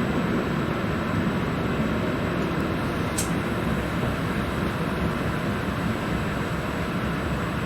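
Regional train in motion: a steady rumble and rolling noise, with one brief high squeak about three seconds in.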